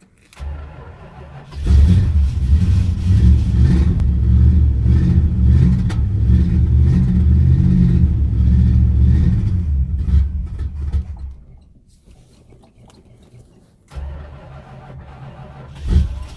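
1971 Plymouth Fury engine on a cold hard start: a short stretch of cranking, then it catches about a second and a half in and runs loud and uneven for about nine seconds before fading out. A lower, steadier rumble starts again near the end, with one sharp loud bang just before it ends.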